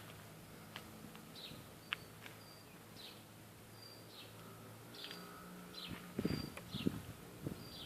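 A bird chirping over and over, short falling calls about once every second and a half, over a faint low hum, with some low knocks and rustling in the last two seconds.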